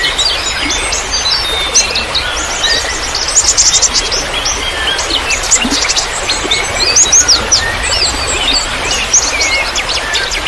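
A chorus of small songbirds chirping and calling at once, with quick high chirps and short whistles overlapping densely. Under them runs a steady hiss of trickling water.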